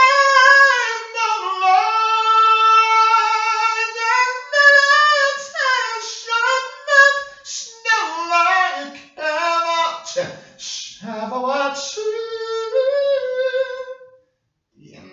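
A high, unaccompanied voice singing long held, wavering notes, then shorter broken phrases, stopping about fourteen seconds in.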